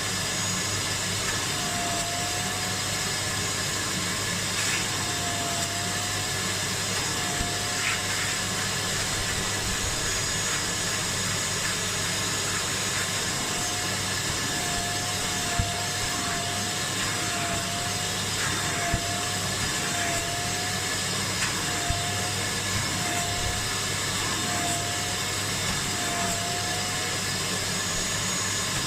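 Kärcher Puzzi 10/1 spray extractor running as it shampoos and extracts car seat upholstery: a steady suction-motor rush with a whine that dips briefly in pitch again and again, and a few faint clicks.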